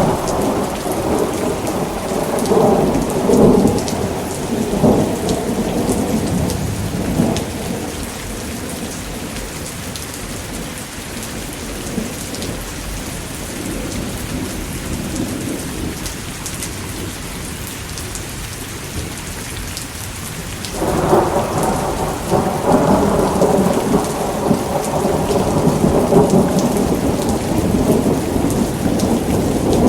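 Thunderstorm: steady rain with rolling thunder. One rumble dies away over several seconds, and another breaks in suddenly about two-thirds of the way through and rolls on.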